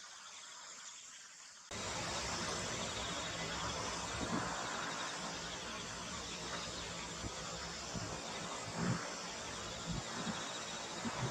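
Insects, crickets by the sound, trilling in a steady fast-pulsing chorus. About two seconds in the sound jumps abruptly louder as a steady rushing noise with scattered low thumps comes in over the insects.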